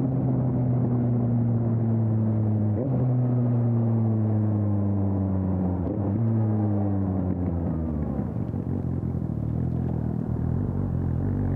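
Suzuki GSX-S750's inline-four engine running through an aftermarket Storm exhaust while riding, its pitch slowly falling, with brief breaks about three and six seconds in. The pitch drops further after about eight seconds and starts to rise again near the end.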